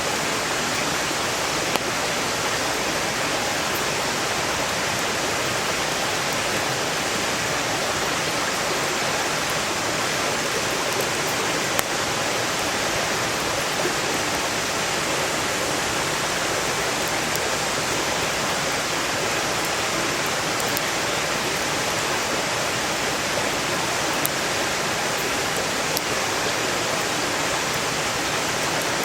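Steady rush of a mountain stream flowing close by, with a few sharp pops from firewood burning in a campfire.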